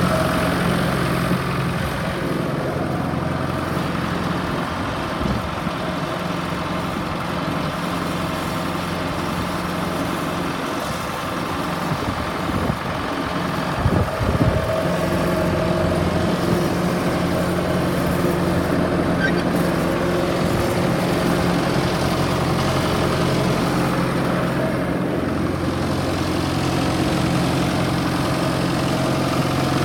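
1959 Ford 971's four-cylinder diesel engine running steadily at idle, with a couple of short knocks about halfway through.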